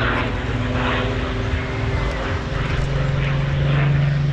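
Supermarine Spitfire's piston engine droning as the fighter flies its display, its pitch stepping up about three seconds in.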